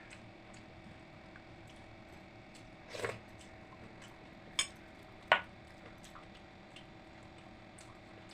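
Eating sounds from a meal of pakhala, water-soaked rice: soft wet squishing and chewing, with a few sharp clinks of dishes. The loudest clink comes about five seconds in.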